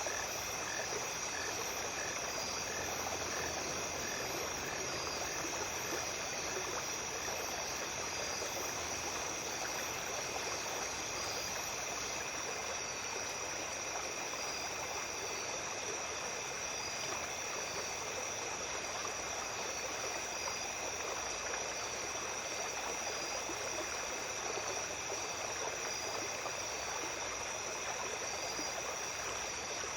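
Small stream flowing steadily at night, with a continuous high-pitched insect trill and other chirping insects over the water. A pulsed call repeats about twice a second in the first several seconds, then fades out.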